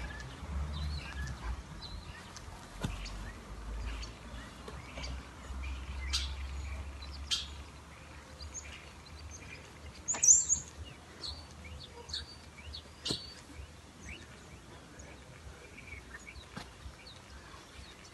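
Small birds chirping now and then in short, high calls, one louder and higher about ten seconds in. Under them, a low rumble fades out after about eight seconds.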